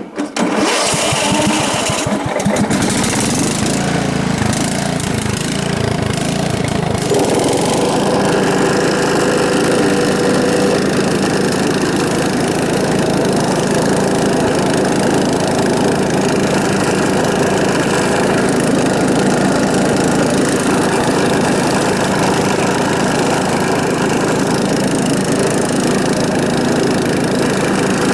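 Kohler Command engine of a John Deere STX38 riding mower, just started and running. It is really loud because the muffler has come disconnected. The running note is uneven for the first few seconds and steadies about seven seconds in.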